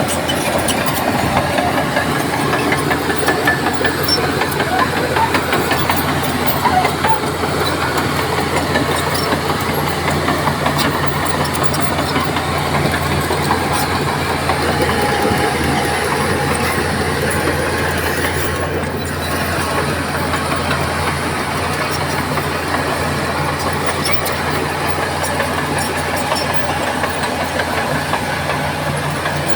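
Heavy diesel engine of a Shantui crawler bulldozer running steadily under load, with a continuous mechanical rattle over the low engine hum.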